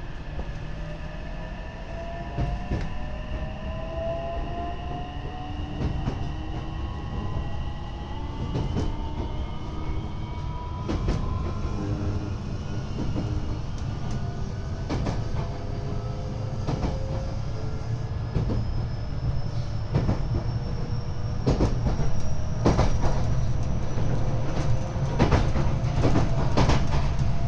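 JR West 227 series electric train's Toshiba IGBT VVVF inverter and traction motors whining, several tones rising steadily in pitch as the train accelerates. Wheels click over the rail joints, the clicks coming more often as the speed rises.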